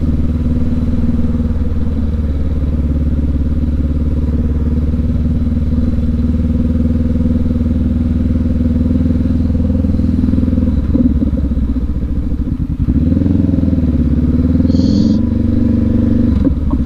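Parallel-twin motorcycle engine idling steadily, then rising and falling in pitch under throttle from about thirteen seconds in. A brief high-pitched tone sounds near the end.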